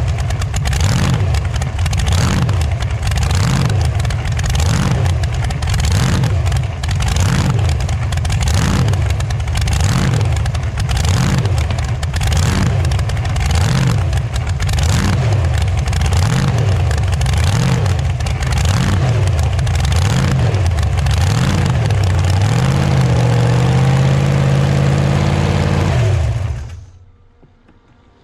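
Loud unmuffled engine of a T-bucket hot rod running on open pipes, its pitch rising and falling about once a second. Near the end it holds a steadier note, then the engine is switched off and cuts out suddenly.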